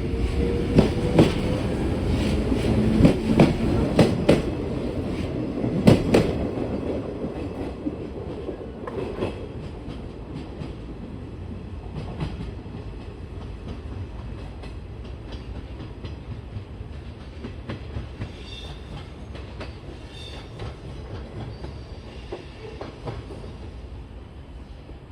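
A train running past over rail joints, its wheels clicking loudly for the first six seconds or so, with a faint rising whine at the start; the rumble then fades away slowly.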